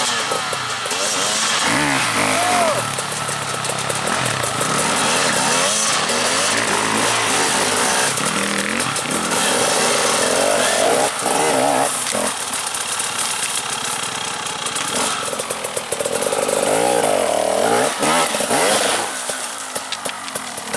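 Enduro dirt bike engines revving hard, their pitch climbing and dropping over and over as the throttle is worked, with more than one engine heard at once.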